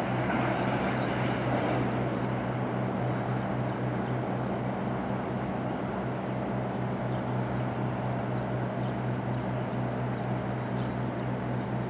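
Freight train's cars rolling away around a curve, their wheel noise slowly easing, over a steady low hum.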